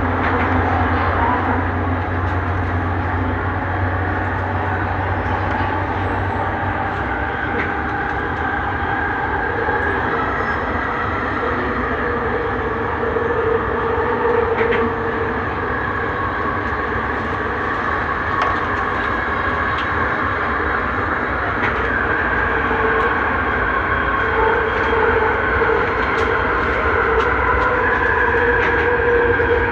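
Interior running noise of a Bombardier Innovia Metro 300 train under way between stations: a steady rumble and hiss with whining tones from its linear induction motor propulsion that drift in pitch, and a few faint clicks.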